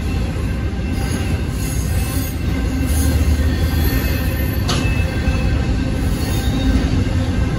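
Freight cars of a Union Pacific manifest train, mostly centerbeam flatcars, rolling steadily past a grade crossing with a low rumble and faint high wheel squeal. There is a single sharp clank about halfway through.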